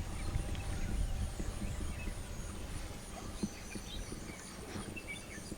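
Riverside outdoor ambience: faint bird chirps and scattered small knocks or splashes over a steady high hiss, with a low rumble that fades away over the first couple of seconds.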